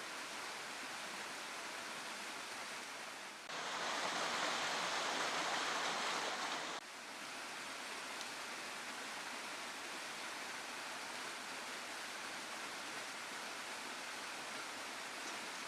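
Waterfall and stream water rushing steadily. From about three and a half seconds in to about seven seconds the rush is louder and fuller, starting and stopping abruptly.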